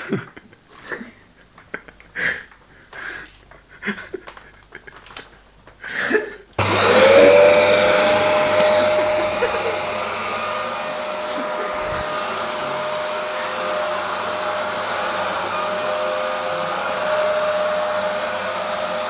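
A few short, indistinct voice sounds, then about six and a half seconds in a Dyson vacuum cleaner is switched on: its motor whine rises quickly to a steady high pitch and keeps running loudly.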